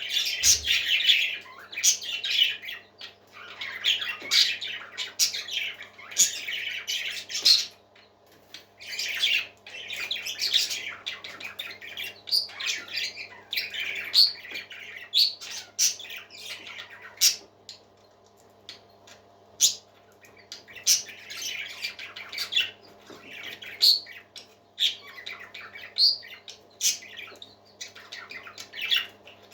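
Parrot chicks squawking in short, raspy calls, one after another, over a steady low hum. The calls die down briefly about eight seconds in and again for a few seconds past the middle.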